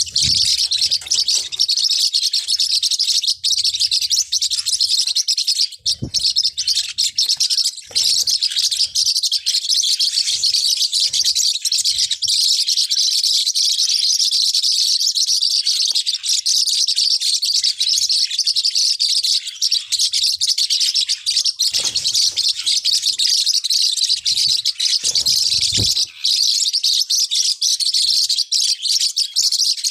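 Forpus parrotlets chirping continuously: a dense, high-pitched twittering without pause.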